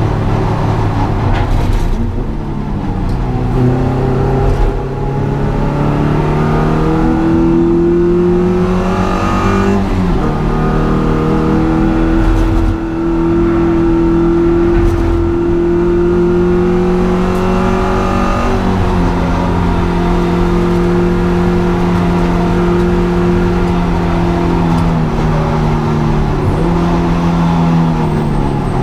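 Honda Integra DC2's engine driven hard, its revs climbing steadily and dropping sharply about six times at gear changes or lifts, with tyre and road noise underneath.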